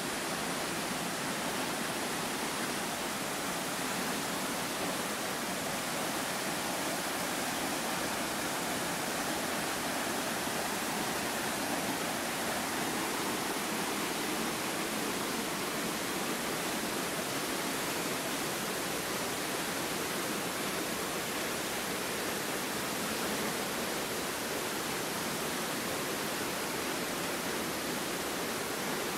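Waterfall rushing: an even, unbroken roar of falling water.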